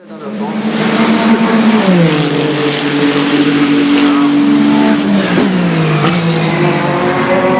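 Ferrari 499P hypercar's twin-turbo V6 race engine running hard. The loud engine note drops sharply in pitch about two seconds in and again twice near five and a half to six seconds.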